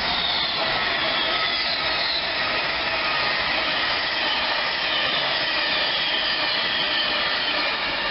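British Rail Class 390 Pendolino electric train passing through the station at speed: a loud, steady rush of wheels and air, with a faint high whine above it.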